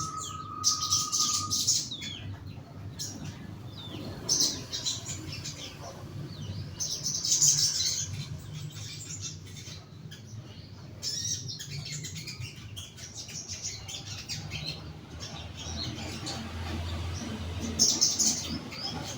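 Young sogon (crested jay) in a cage giving short bursts of high chirps and calls, several times over, over a steady low hum.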